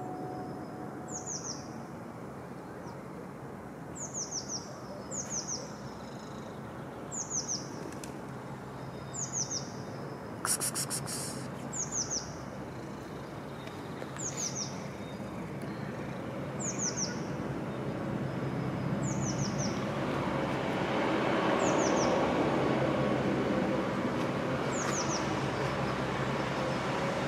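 A bird calling over and over, each call a quick group of two or three high, falling chirps, repeated about every second or two. Under it runs a steady outdoor background noise that swells in the last third, with a brief rattle about ten seconds in.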